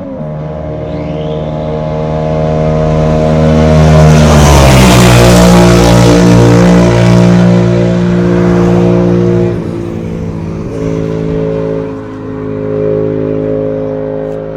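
Yamaha MT-07's 689 cc parallel-twin engine, breathing through an SC Project CR-T aftermarket exhaust, passing by at steady throttle. The exhaust note grows louder, peaks about five seconds in with a drop in pitch as the bike goes past, then fades away.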